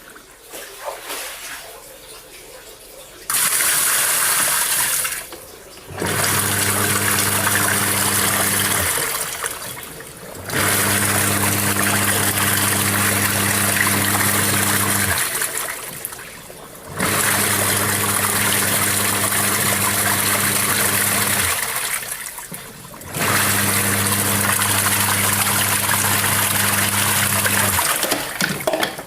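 LG twin-tub washing machine's wash tub running with water: the pulsator motor hums and churns the water in runs of about four to five seconds. Each run stops for a second or so before the next, as the wash cycle reverses direction.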